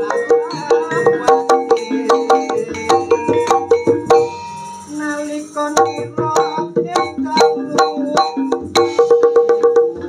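Javanese gamelan ensemble playing: bronze metallophones struck in quick, even strokes, each note ringing on, with a hand drum underneath. The playing thins out briefly near the middle, then picks up again at full density.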